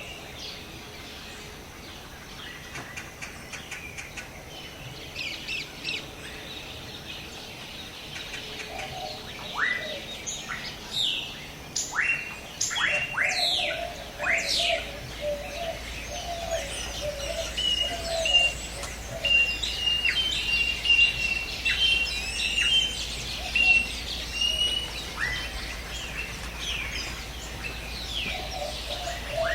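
Several jungle birds calling over a soft background hiss: a burst of quick, sharply falling whistles in the middle, then a rapid run of repeated high notes alongside a lower warbling call. A faint low hum comes in about halfway through.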